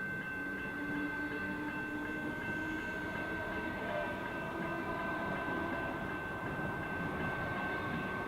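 Electric suburban train running on the line, with a steady high-pitched whine over a low rumble.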